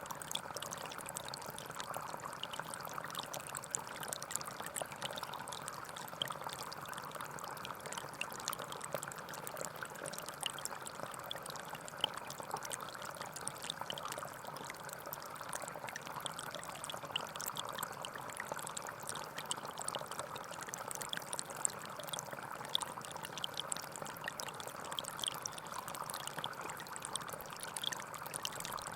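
Small forest stream flowing and trickling steadily over stones, with a continuous babble and many small splashes.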